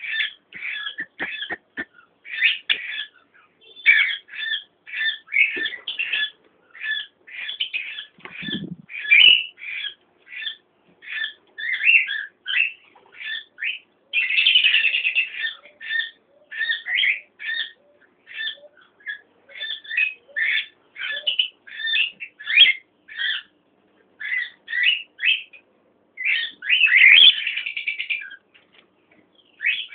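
Cockatiels calling: a steady run of short, scratchy calls, about two a second, with longer harsher bursts around the middle and near the end.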